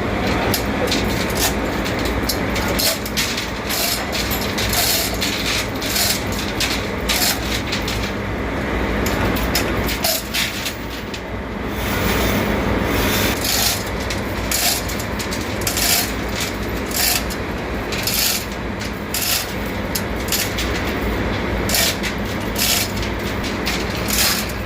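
Loud, steady drone of running machinery with frequent irregular metallic knocks and clanks from work on the equipment.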